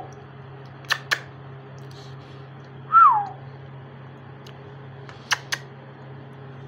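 A parrot gives one short whistle that falls in pitch, about three seconds in. Two quick pairs of sharp clicks come about a second in and again past five seconds, over a steady low hum.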